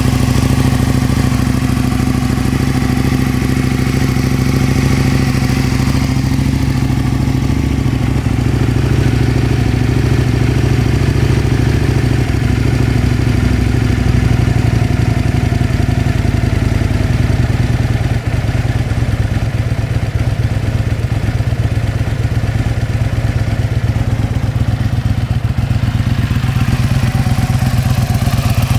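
Aprilia Tuono 1000R's V-twin engine idling steadily, its pitch holding level throughout.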